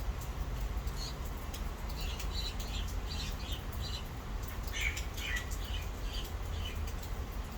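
A bird chirping: a quick series of short, high chirps for several seconds, over a steady low hum.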